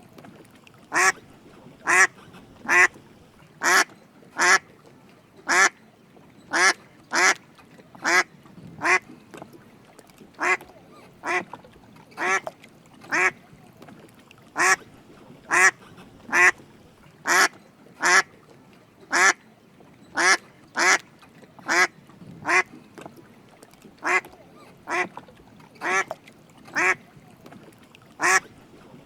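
Drake mallard duck quacking: short calls repeated about one to two times a second, some in quick pairs.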